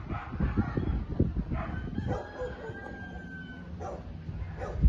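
Animal calls: a series of short cries, with one long, steady high-pitched call held for about a second and a half in the middle.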